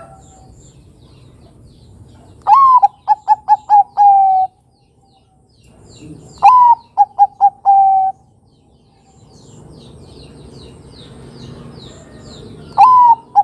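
Zebra dove (Bangkok-bred perkutut) cooing three times. Each call is a sliding first note, a run of quick short notes, and a longer held final note; the third call starts near the end. Faint high chirps of small birds are heard underneath.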